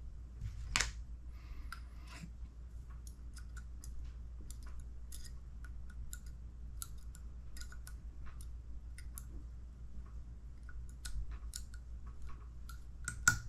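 Irregular light clicks and ticks of small RC kit parts being handled on a workbench. A sharper click comes about a second in and another near the end, over a low steady hum.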